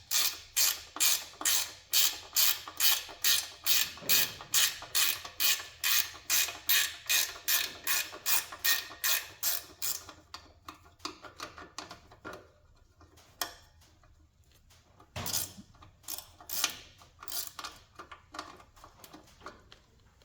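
Ratchet wrench clicking in a steady rhythm, about three clicks a second, for roughly the first half, as a fastener is worked loose during brake master cylinder disassembly. It then gives way to scattered, quieter clicks and knocks of tools and parts.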